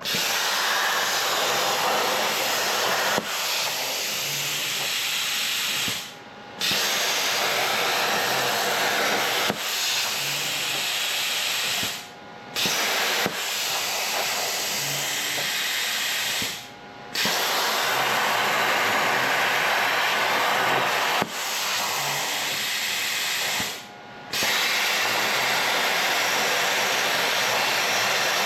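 Loud, steady hissing from a shop tool at work. It breaks off briefly four times, about every five or six seconds, and each time starts again abruptly.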